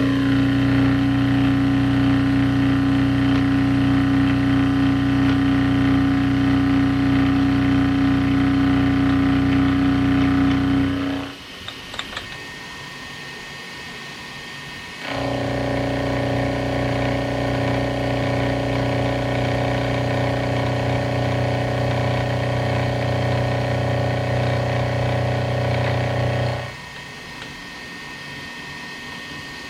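Milling machine running with an end mill cutting, a steady machine hum. It drops to a quieter level for a few seconds about eleven seconds in, with a couple of clicks, then runs again with a different pitch until it drops away near the end.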